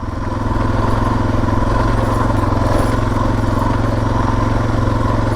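Suzuki DR650's single-cylinder four-stroke engine running at a steady cruise while riding, its note getting a little louder in the first half second and then holding even.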